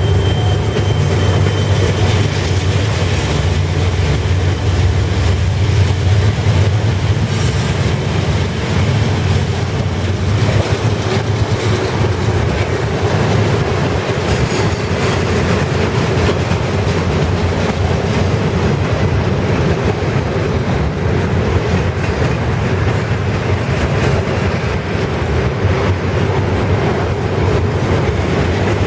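Freight train cars rolling past, their wheels clacking over rail joints in a steady, continuous rumble.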